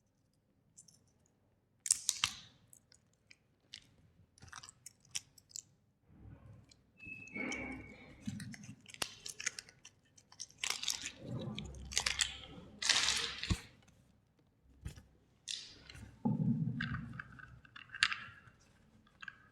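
Irregular crunching and crackling with scattered sharp clicks from small toys and their packaging being handled at close range, busiest in the second half.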